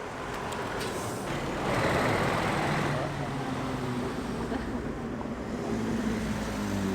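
Motor vehicle engine noise: a vehicle passes close, swelling about two seconds in, then a steady low engine drone.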